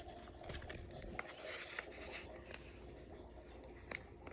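Faint rustling with a few small, sharp clicks, as of objects being handled.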